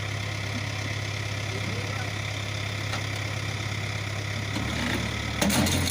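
Tractor engine running steadily at a low, even pitch. Its note shifts lower near the end, where a few sharp knocks and clatters join in.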